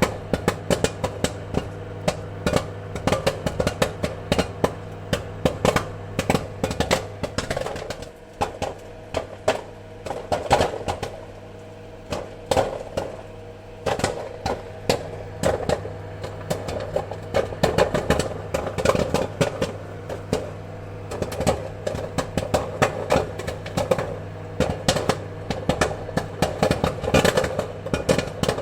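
Popcorn kernels popping in quick, irregular bursts of sharp pops, thinning out for a few seconds around the middle before picking up again, over a steady low hum.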